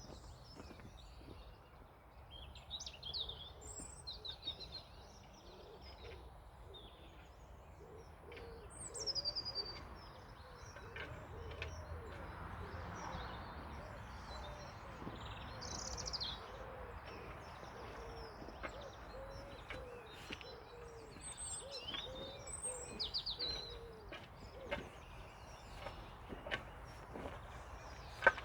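Wild birds chirping and singing, with a few faint knocks and scrapes among them.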